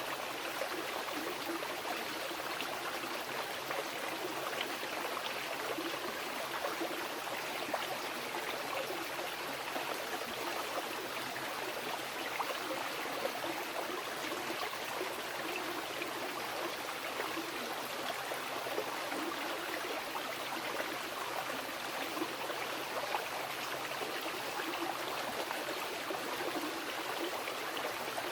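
Mountain river rushing steadily over rocks, a constant splashing and babbling flow.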